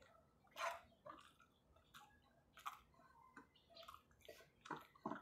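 Faint, irregular mouth clicks and smacks of someone chewing a chocolate moron, a soft sticky rice cake, with her mouth closed, about one or two a second.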